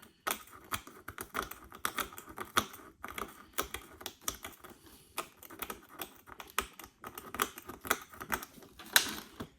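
Razor blade scraping and chipping shattered back glass off an iPhone SE: a fast, uneven run of sharp scratchy clicks, several a second, with the loudest one near the end.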